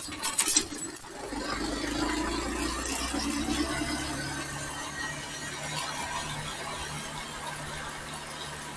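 Motorcycle engine running as the bike rides along the road, coming up about a second in and then holding a steady note. A few sharp clicks at the very start.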